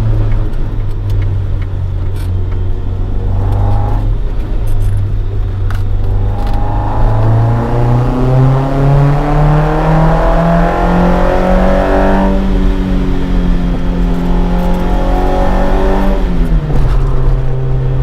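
Toyota AE86 Sprinter Trueno with a swapped AE111 20-valve four-cylinder on individual throttle bodies and a Fujitsubo Legalis R exhaust, driving. The engine runs steadily, then the revs climb over a few seconds and hold high. Near the end the revs fall quickly and settle lower.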